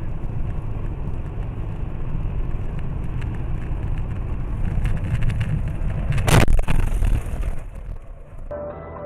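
Car driving with a steady low engine and road rumble, then one loud, sharp collision impact about six seconds in.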